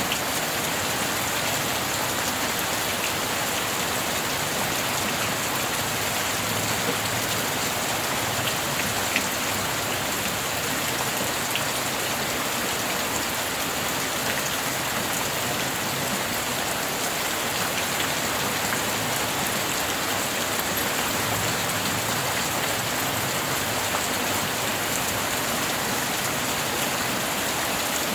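Steady, dense rainfall hissing evenly, with a few sharper single drop ticks standing out here and there.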